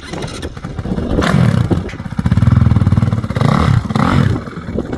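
Dirt bike engine revving hard, rising and falling in pitch and loudest in the middle.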